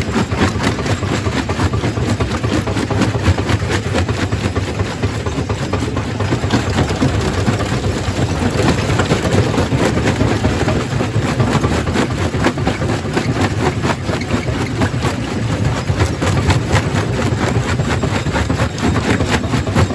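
Quarry primary rock crusher running under load: a steady heavy mechanical drone with a constant irregular clatter of rock knocking and cracking as stone is broken.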